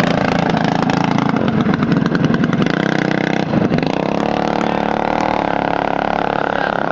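Minibike's small engine running, rough and pulsing for the first few seconds, then settling to a steady, even pitch about halfway through.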